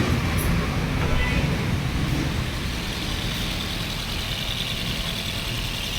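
Maruti Swift's four-cylinder engine idling with a misfire, a steady low rumble that runs unevenly. A faint high whine joins it about halfway through.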